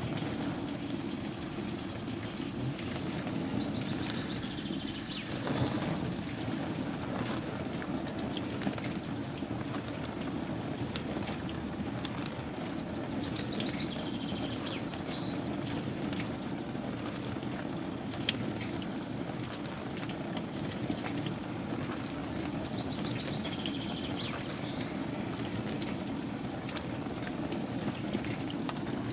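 Bosch WAN28220FF front-loading washing machine running its synthetics 40 °C cycle: a steady churning and splashing of water in the drum that starts abruptly at the outset and then holds steady, with scattered faint clicks.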